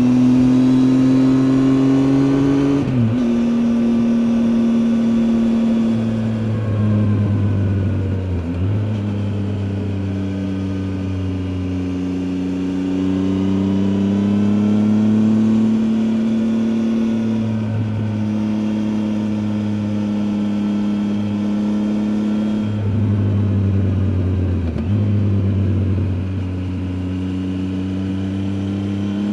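Triumph Tiger 800 XCA's inline three-cylinder engine running under way, heard from onboard. Its note rises and falls with the throttle, with a few sudden breaks in pitch, the first about three seconds in.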